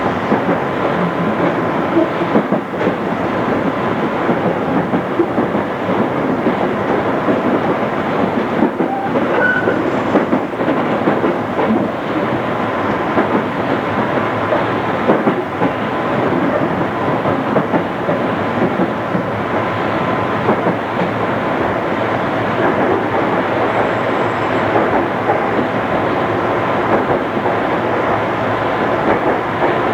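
Interior running noise of a JR East 211 series electric commuter train: a steady rumble with rail clatter from the wheels, heard from a cassette tape recording.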